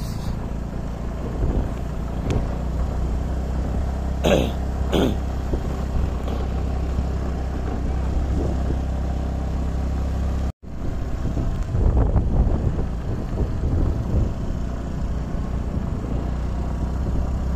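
Motorcycle engine running steadily on the move. Two short sharp sounds come about four and five seconds in, and there is a momentary complete break in the sound a little past the middle.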